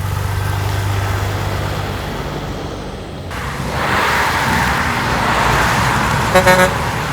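Heavy trucks running, a low steady engine drone, with a louder rushing noise coming in about halfway through. A short horn toot sounds near the end.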